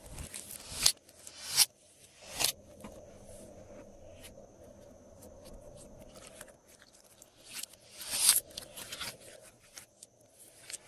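Hands working glossy slime, giving short sharp squelches and crackles. About four of them come roughly a second apart at first, then there is a stretch of quieter sticky crackling, then a louder cluster of squishes about eight seconds in.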